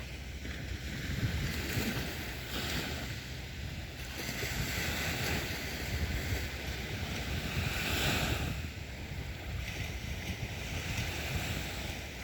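Sea waves breaking and washing up the beach in repeated surges, the biggest about two-thirds of the way through.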